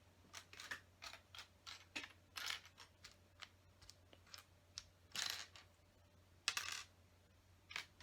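Loose plastic LEGO pieces clicking and clattering as hands sort and sift through them, in quick irregular taps with two longer rattles about five and six and a half seconds in.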